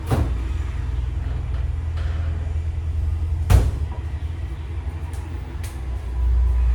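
A steady low rumble with two sharp knocks, one right at the start and a louder one about three and a half seconds in, like kitchen items being handled.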